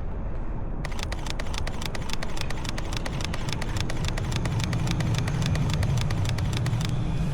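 Camera shutter firing in a rapid continuous burst, about eight clicks a second for some six seconds, starting about a second in and stopping near the end, over the low rumble of a passing streetcar that grows louder in the second half.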